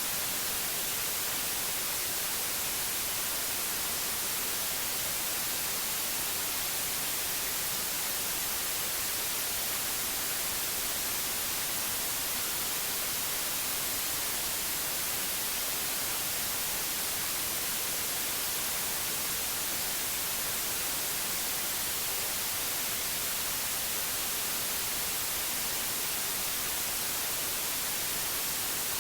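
Steady electronic white noise: an even, unbroken hiss, brightest in the treble, with no changes.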